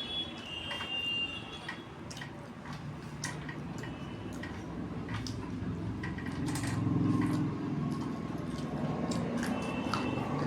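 A person eating rice and curry: chewing with wet mouth clicks and smacks in quick, uneven succession.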